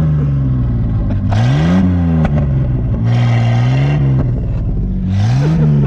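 A truck engine revving hard three times in a row, its pitch climbing and dropping each time. A rushing hiss rises with each rev as the truck tries to push through deep snow and bogs down.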